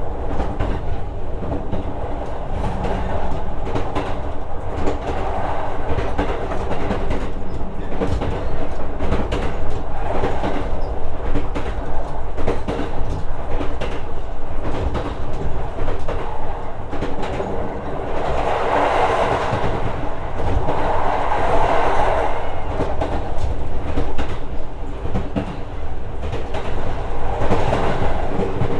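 Interior of a JR West 125 series electric railcar running along the line: the steady rumble of the wheels on the rails, with repeated clicks over rail joints and a steady hum. The running noise swells louder twice about two-thirds of the way through, and again near the end.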